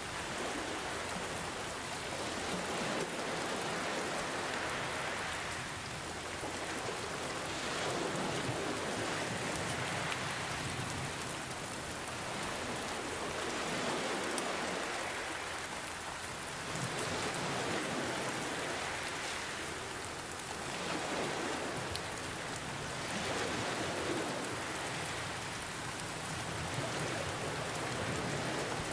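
Steady rain pattering, mixed with gentle ocean waves that swell and fall back every few seconds.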